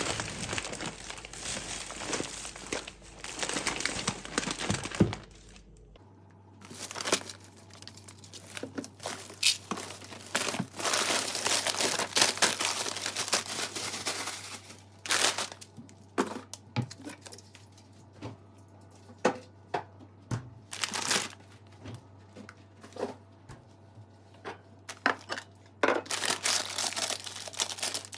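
Crinkling and rustling, handled in irregular bursts with short pauses. About six seconds in the background changes and a faint low hum comes in.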